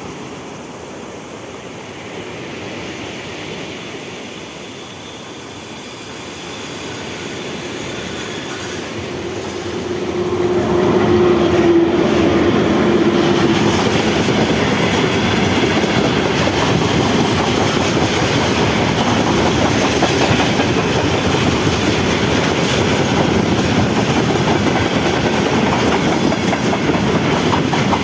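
A train approaches, growing louder over the first ten seconds, then passes close by with continuous wheel clatter over the rail joints. A steady tone sounds for about four seconds as it arrives.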